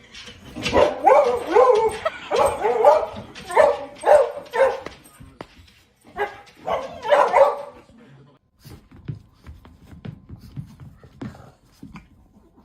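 A dog vocalizing in a run of short, pitched barks and whines that bend up and down in pitch, in groups for about the first eight seconds. After that only faint clicks are left.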